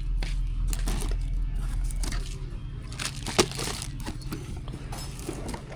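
Scattered small clicks and knocks, with one sharper knock about three and a half seconds in, over a steady low hum.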